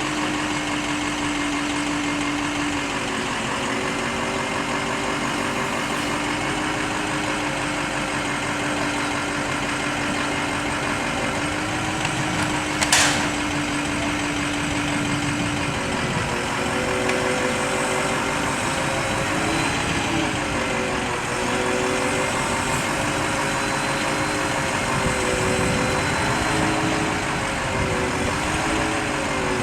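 Bucket truck's engine running steadily, its pitch wavering up and down in the second half. A single short sharp click about thirteen seconds in.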